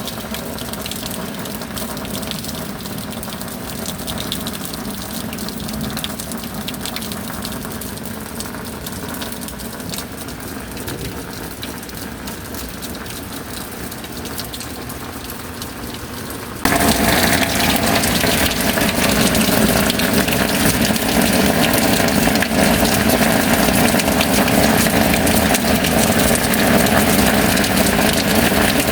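Steady rain, a dense even hiss with a faint steady hum beneath it; about two-thirds of the way through it abruptly becomes much louder and fuller.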